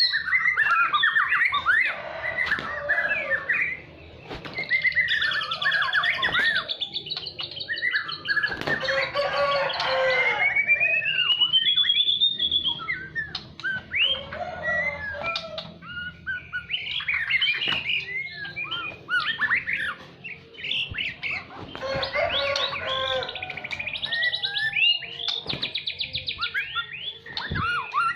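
White-rumped shama (murai batu) singing a long, varied song of whistles, trills and rattling phrases, with a long rising whistle about ten seconds in and brief pauses between bouts.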